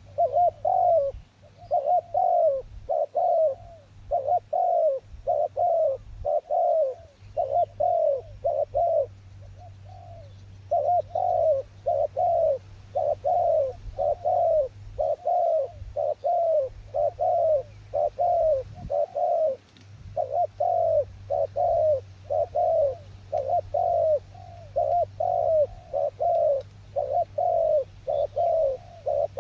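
Dove cooing over and over, about two coos a second in long runs with a few short breaks, over a steady low rumble.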